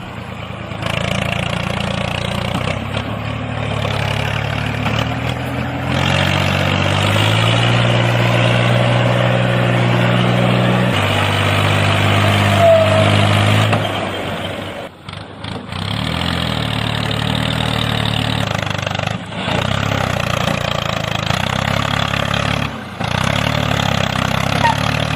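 Tractor engine running steadily. Its pitch steps up a few seconds in and drops back down later, and the sound cuts out briefly a few times.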